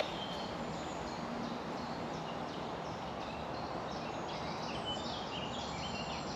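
Small songbirds chirping and singing in short high phrases over a steady background hiss of woodland ambience.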